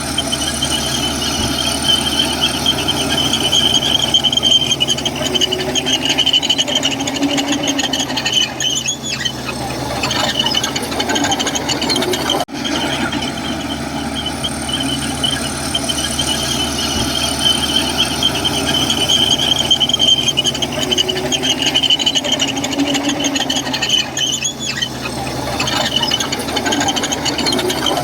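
Komatsu crawler bulldozer working, with a loud, high-pitched squeal from its steel tracks that swells and fades over the steady running of its diesel engine.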